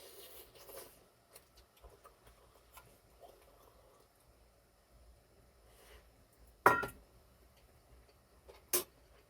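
Light handling noises: a soft rustle at the start and a few faint ticks, then two sharp clicks of small hard objects, the louder one about two-thirds of the way in with a brief ringing tone, the other near the end.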